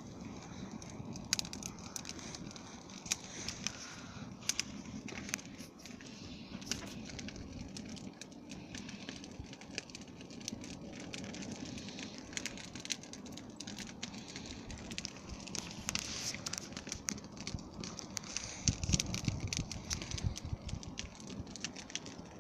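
Campfire burning, with irregular sharp crackles and pops from the wood over a steady low rush, and a low rumble about nineteen seconds in.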